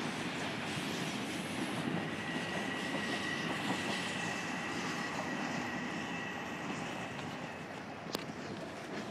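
Long Island Rail Road M7 electric train running along an elevated viaduct as it comes into the station. A high steady squeal starts about two seconds in and fades out after about seven seconds. A single sharp click comes near the end.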